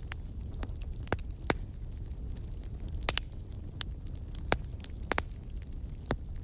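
Wood fire in a fireplace crackling: irregular sharp pops and snaps, about a dozen, over a steady low rumble of the burning.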